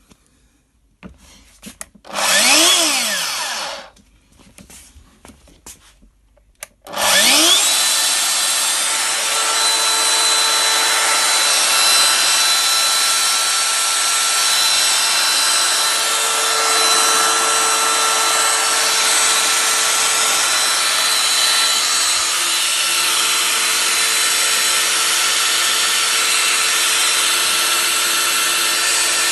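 Festool DF 700 EQ Plus (Domino XL) joiner's electric motor switched on briefly, spinning up and coasting down, then a few clicks. It is started again about seven seconds in and runs steadily with no load. The owner finds it works well, with no sparking.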